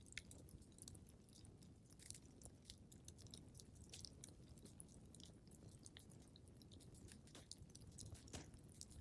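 Faint wood fire crackling in a fireplace: irregular small snaps and a few louder pops over a steady low rumble of the burning.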